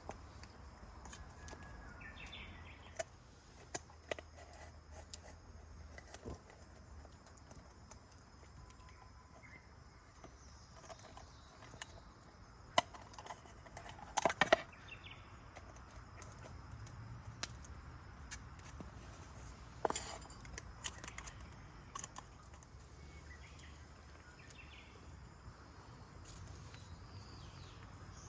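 Quiet outdoor ambience with scattered sharp clicks and knocks, loudest in a short cluster around the middle, and faint short bird chirps.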